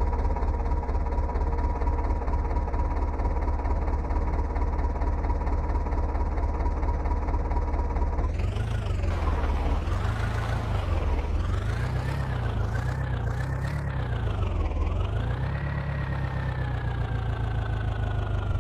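Diesel tractor engine running at a steady speed for about eight seconds, then its speed rising and falling again and again as the throttle is worked.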